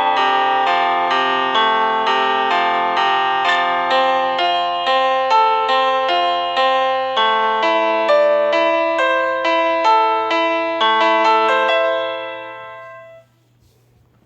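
Solo piano music: a steady run of single notes, about two a second, that dies away to near silence about 13 seconds in.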